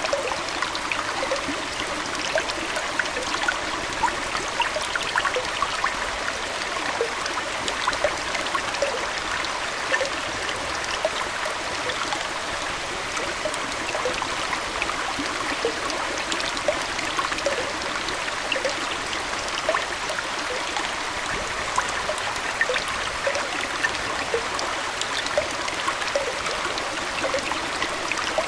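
Aquarium water flowing and trickling steadily, with many small splashes dotted through it.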